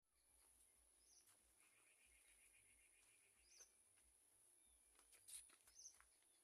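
Near silence: faint rural ambience with a few brief, faint bird chirps and a steady faint high hiss.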